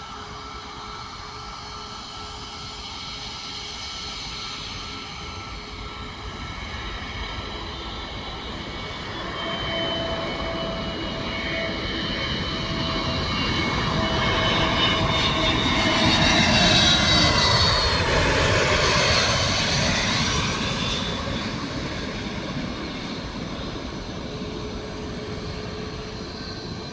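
Airbus A320-family jet airliner passing by on its landing approach. The jet engine noise builds to a peak a little past halfway, its whine drops in pitch as the plane goes by, then it fades.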